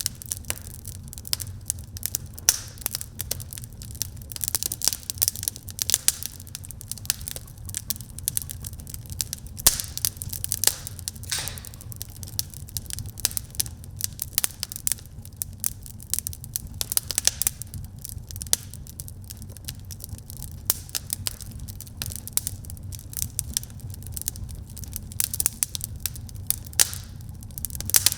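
Wood fire burning in a fireplace: dense irregular crackling and sharp pops over a steady low rumble of the flames.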